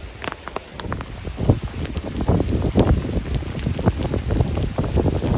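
Heavy downpour: dense, irregular drops striking close by. It gets louder about a second in.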